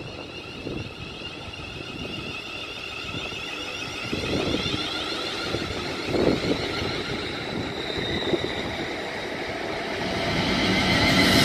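A train approaching through the station, its noise building steadily and loudest near the end.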